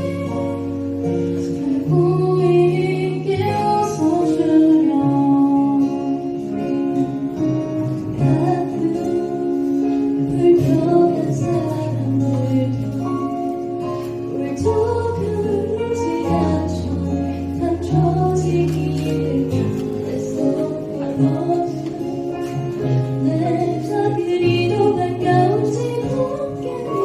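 Live band performance of a ballad: female vocals singing over acoustic guitar and keyboard, with held low keyboard notes underneath.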